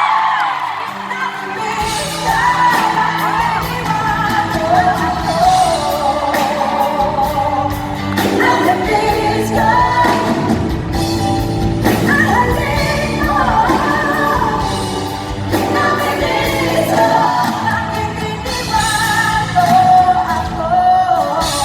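Live pop music: a singer with vibrato over a full band, with the band's low end coming in about two seconds in.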